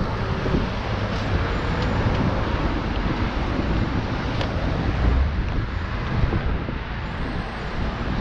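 Low street-traffic rumble from passing vehicles, with wind buffeting the microphone.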